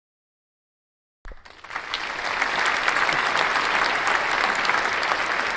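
Applause, many hands clapping, starting abruptly just over a second in and going on steadily.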